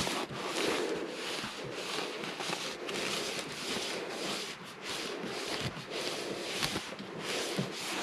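Cloth rubbing sanding sealer onto a turned wooden piece: a scrubbing hiss made of many short, uneven strokes.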